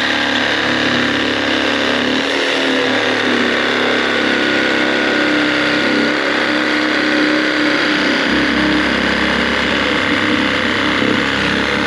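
Milwaukee M12 Hackzall cordless reciprocating saw running steadily with a demolition blade, sawing through a wooden board. The board vibrates as it is cut, which hurts the cutting.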